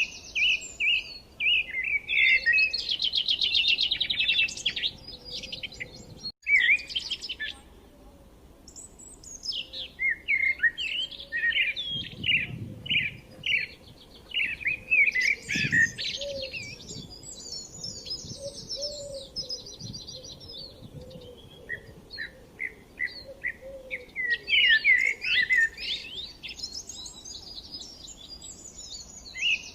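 Birds chirping and singing continuously in quick, overlapping chirps and trills, with a brief dropout about six seconds in.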